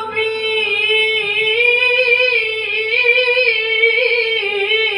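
A Qur'an reciter's solo voice in melodic recitation, holding one long, unbroken high phrase with wavering ornaments around a fairly level pitch.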